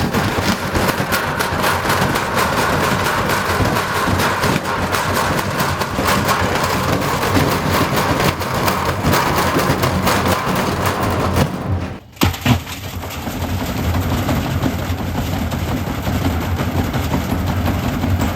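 Frigidaire front-loading washing machine banging and rattling hard in a badly unbalanced spin cycle, a rapid, continuous run of knocks. About twelve seconds in the banging breaks off, and a steadier low machine hum follows.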